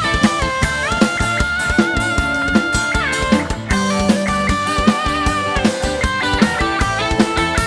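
Live band playing an instrumental intro: a sustained lead melody with pitch slides and vibrato over a steady drum beat.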